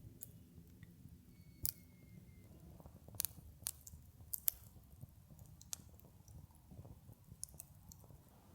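Scattered sharp clicks and crackles at irregular intervals over a low steady rumble, with a brief faint thin squeak about two seconds in.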